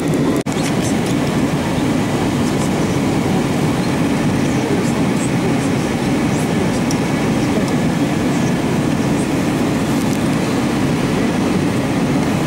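Steady cabin noise of an Airbus A321 in cruise flight: a constant rush of airflow and engine hum, with a brief dropout about half a second in.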